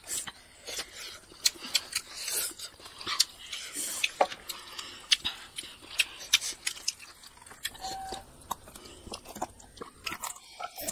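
Close-up eating sounds of rice and egg curry being eaten by hand: chewing and lip-smacking, heard as a scattered run of short, sharp wet clicks.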